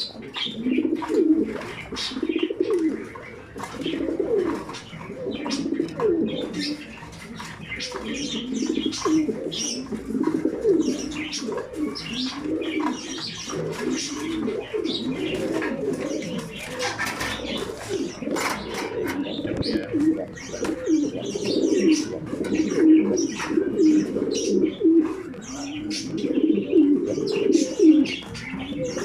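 Many racing pigeons cooing at once, their low warbling calls overlapping without a break, with scattered sharp clicks and chirps above them.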